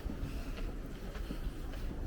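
City street ambience heard while walking: a steady low rumble with a few faint taps of footsteps.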